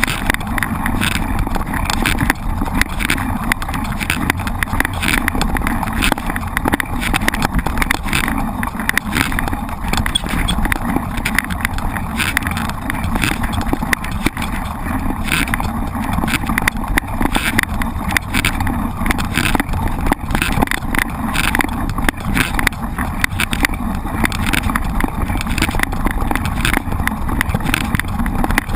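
Mountain bike rolling over a rough dirt track, with a steady rumble of wind on the camera's microphone and a constant rattle of the bike and tyres over the ground.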